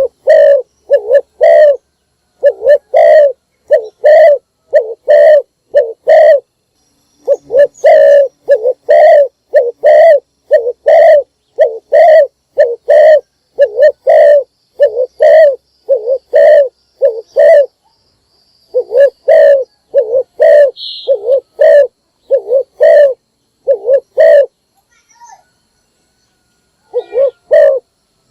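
Spotted dove cooing: a long run of short, low coos, about two a second, broken by a few brief pauses.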